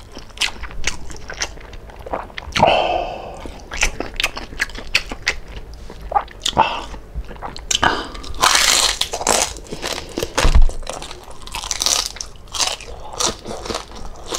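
Close-miked biting, crunching and chewing of crispy lechon kawali (deep-fried pork belly), with many sharp crunches throughout.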